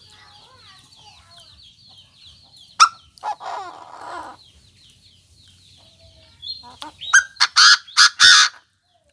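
Chinese francolin calling: harsh, grating bursts, with one call about 3 s in and a loud run of several near the end.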